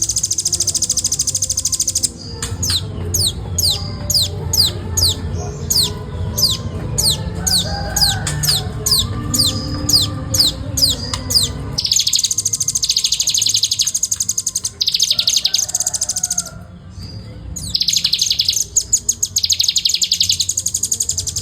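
Velvet-fronted nuthatch singing in rapid-fire bursts: dense, fast high trills, broken for about ten seconds by a run of separate downward-sweeping notes at about three a second before the fast trills return.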